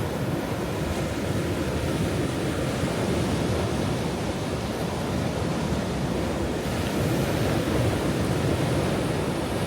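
Ocean waves washing onto a shore in a continuous low rushing wash, with no single distinct break standing out.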